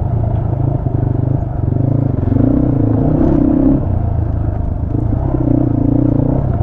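250 cc motorcycle engine running at low speed, its pitch rising and falling slightly as the throttle changes, with some clattering.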